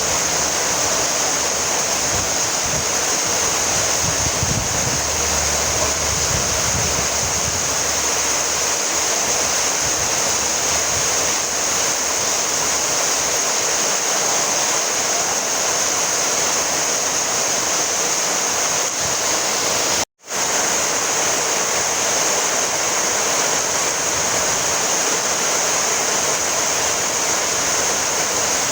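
Steady rainfall hiss, a dense even wash of falling water. It cuts out for a split second about twenty seconds in.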